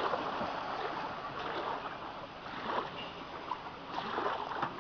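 Water sloshing and splashing, with small irregular splashes and no engine running close by.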